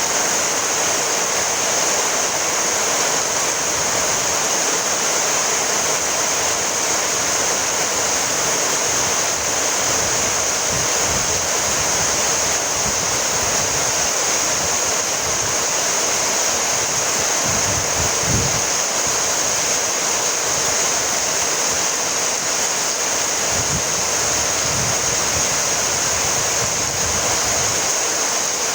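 Steady rainfall, an unbroken even hiss, with a couple of faint low rumbles in the second half.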